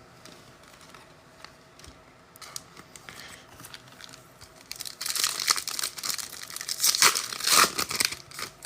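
A trading card pack's wrapper being torn open and crinkled. The tearing starts loud about five seconds in and goes on for a few seconds, after faint handling clicks.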